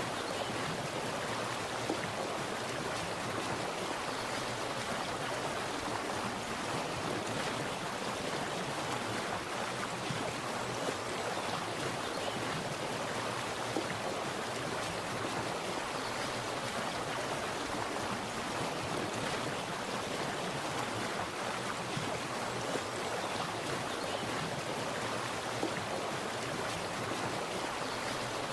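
Water splashing and running in a small stream or cascade, a steady rushing patter with small irregular splashes.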